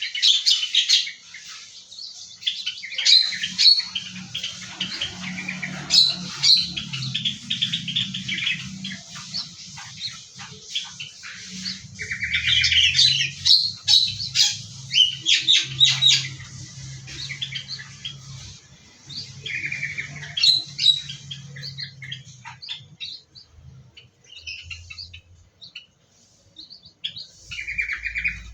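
Small aviary birds chirping and trilling in many quick, overlapping calls. A low rumble runs underneath for much of the stretch.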